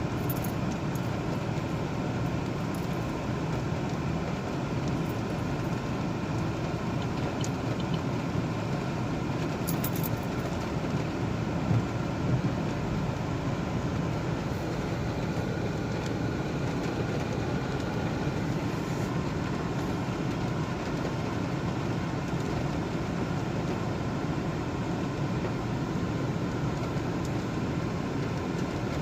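Steady road and engine noise of a car driving, heard from inside the cabin, with a couple of small knocks about twelve seconds in.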